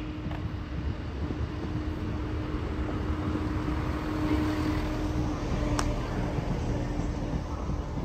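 A train running at the station platform: a steady mechanical hum with a held low drone that swells a little around the middle, and a single sharp click about six seconds in.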